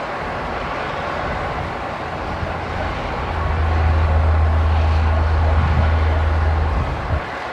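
Heavy diesel earthmoving machinery running, its engine noise steady, with a deep low rumble that swells about three seconds in and drops away suddenly near the end.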